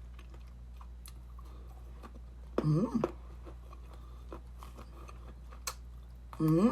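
Close-miked chewing with small wet mouth clicks, over a faint steady low hum. A short voiced sound breaks in twice, about three seconds in and again at the end.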